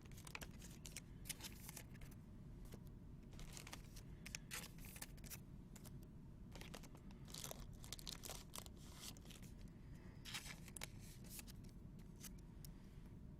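Faint crinkling and tearing of foil card-pack wrappers, with the scratchy clicks of trading cards being slid and handled, in short irregular bursts over a low steady room hum.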